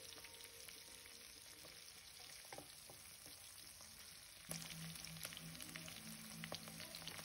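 Chilies, curry leaves, garlic and ginger frying in a little oil in a wok, sizzling faintly, with a few light clicks and scrapes of a wooden spatula stirring them.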